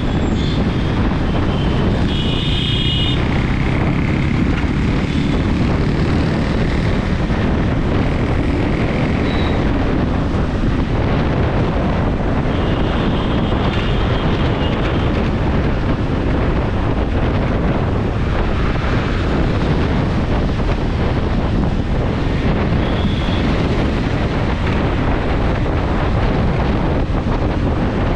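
Wind rushing over the microphone with engine and road noise from a moving scooter in traffic, loud and steady. A few short, higher-pitched tones sound over it.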